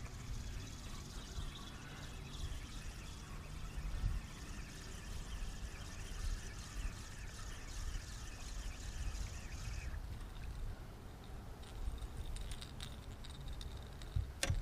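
Steady pouring or running water for about ten seconds that stops abruptly, followed by a few scattered clicks and knocks, over a low rumble.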